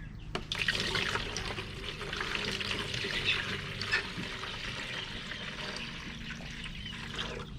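Water being poured into a plastic chick waterer, a steady pour that starts about half a second in and runs several seconds.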